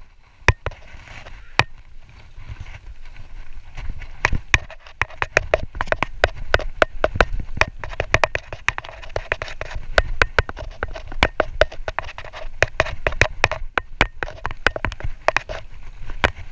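Mountain bike riding a rough dirt trail: a dense, irregular rattle of clicks and knocks from the bike over bumps, above a low rumble of the tyres. The rattle is sparse at first and thickens about four seconds in.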